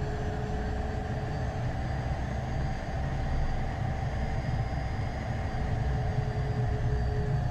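Cockpit noise of a Beechcraft Premier I business jet taxiing, its twin turbofan engines at idle: a steady low rumble with two steady tones above it.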